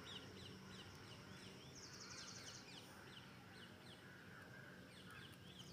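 Faint birds chirping in the background: a run of short, quick chirps, a few a second, with a brief buzzy trill about two seconds in.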